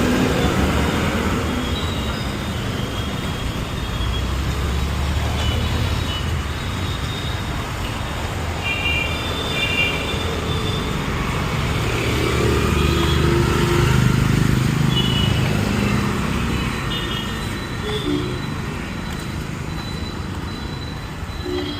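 Road traffic going by: a steady rumble of vehicle engines and tyres, with several short horn toots.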